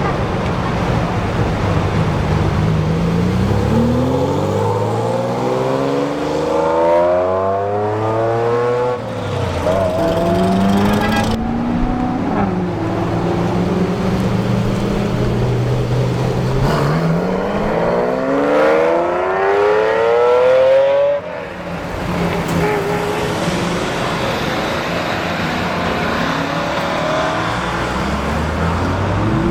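Supercar engines accelerating hard: twice the engine note climbs steadily for several seconds, the second run cutting off abruptly, and another starts to rise near the end, over the steady idle of other cars.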